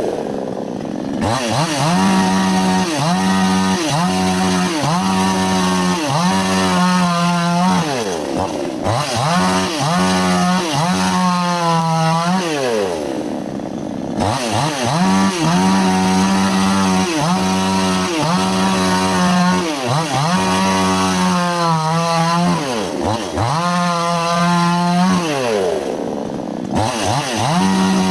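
Two-stroke chainsaw cutting wood. The engine pitch holds steady for stretches while it is under load in the cut, and in between swings up and down again and again as the throttle is worked. Its high end drops out briefly a few times, at about a second in, near 9 and 14 seconds, and near the end.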